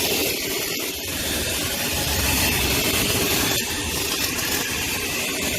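Car wash vacuum hose running with a steady rushing hiss of suction air as it is worked over the car's interior.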